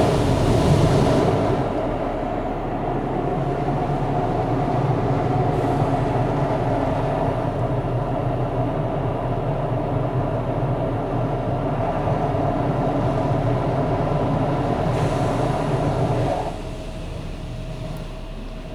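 Mark VII car wash's soft-cloth top brush spinning and scrubbing over the vehicle, heard from inside the cabin as a loud, steady rumbling with a low hum. The noise drops sharply about two seconds before the end.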